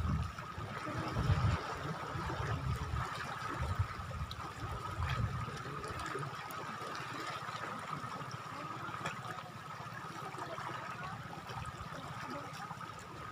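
Seawater lapping and trickling at the shoreline, with a faint steady high tone over it and some low rumbles in the first few seconds.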